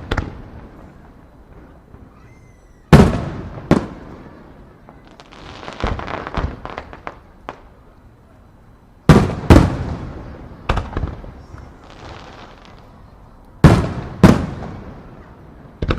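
Aerial fireworks shells bursting: sharp booms that echo away, in clusters of two or three a few seconds apart. Between the clusters comes a quick run of smaller pops.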